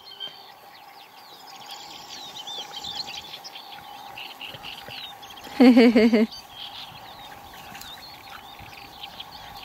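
Songbirds chirping and singing, with a steady hum underneath. A little after halfway, a loud drawn-out, wavering call lasting under a second stands out above the birdsong.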